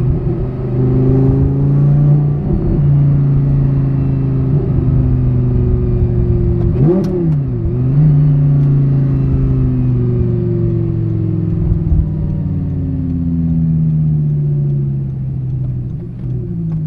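Audi R8's V10 engine through a race exhaust, heard from inside the cabin while driving. About seven seconds in the revs dip and then jump back up, like a gear change, after which the engine note slowly falls for several seconds.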